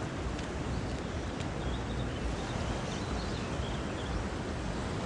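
Steady rush of Shenandoah River floodwater flowing over and beside the road, with a low rumble, and a few faint high chirps in the middle.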